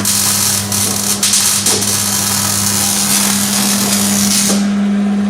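A shop power tool running: a steady loud hiss with scattered crackles, over a steady electrical hum that grows stronger about four and a half seconds in.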